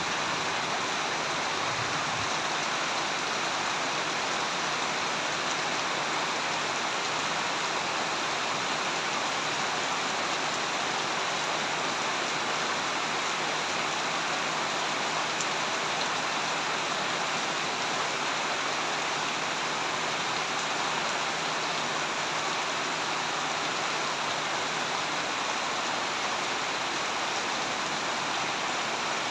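Steady heavy rain falling, an even unbroken hiss of rainfall.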